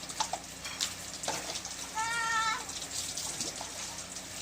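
Rainwater splashing and pouring, with scattered splashes. About two seconds in, a single high, drawn-out cry lasting about half a second.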